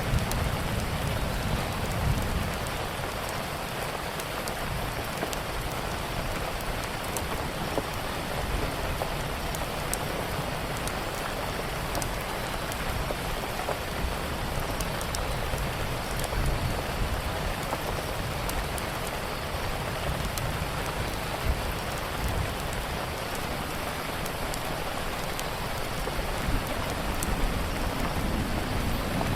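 Steady rain falling, with a low rumble of thunder dying away over the first couple of seconds and swelling faintly again later. Scattered small crackles of a wood fire run over it.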